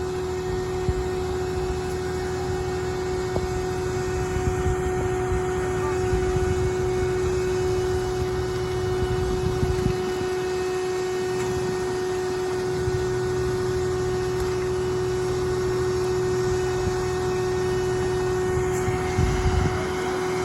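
A vehicle engine idling steadily, with a constant hum over a low rumble.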